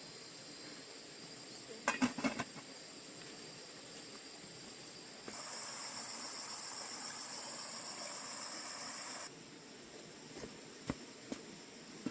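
Insects chirring with steady high-pitched tones. A louder, denser insect buzz starts abruptly about five seconds in and cuts off about four seconds later. A few short knocks sound around two seconds in and again near the end.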